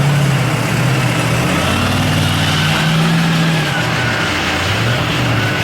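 Mega truck's engine revving, its pitch rising and falling several times as the throttle is worked.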